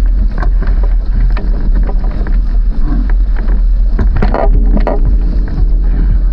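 Wind buffeting the microphone over water rushing along a racing sailing dinghy's hull, with a few sharp knocks or slaps about four to five seconds in.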